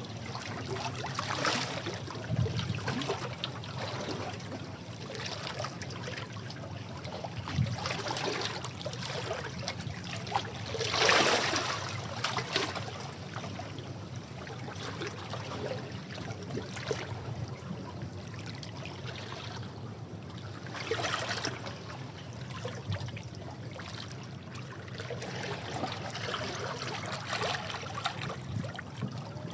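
Sea waves washing over rocks: a continuous splashing wash of water, with waves surging in every few seconds, the biggest one about a third of the way in.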